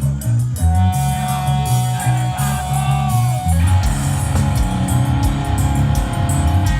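Live rock band playing loud: distorted electric guitar over a repeating bass riff and drums. A lead guitar holds a long, bending note, then the band thickens into a denser, heavier riff about three and a half seconds in.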